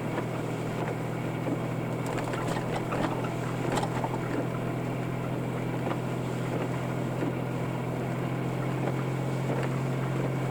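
Steady drone of engine and road noise inside a four-wheel-drive vehicle driving on snowy roads, with a few light knocks about three seconds in.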